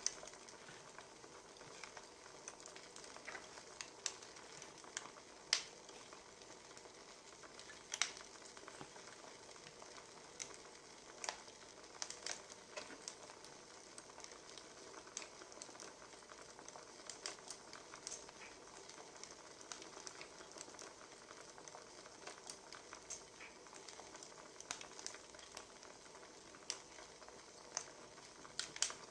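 Wood fire crackling: a steady soft hiss with irregular sharp pops and snaps, a few of them louder.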